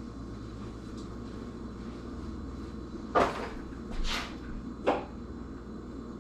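Three brief knocks and scrapes of kitchen items being handled, about a second apart, over a low steady hum.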